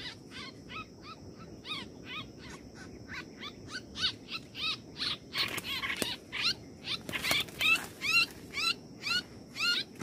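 Bird giving a rapid run of short, repeated calls, about three or four a second, each a quick bending note. A faint steady high-pitched tone runs behind it.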